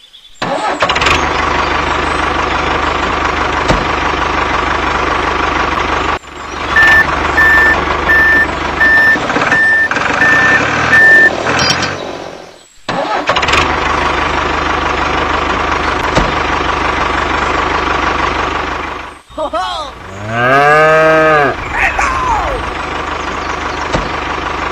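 Tractor engine running steadily, broken by two short cuts. During the middle stretch it is joined by about seven evenly spaced reversing beeps. About twenty seconds in, a long low call rises and then falls in pitch.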